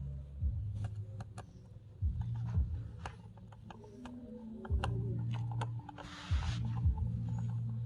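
Small clicks and taps from handling small parts, over a low hum that starts and stops four times; a short hiss comes about six seconds in.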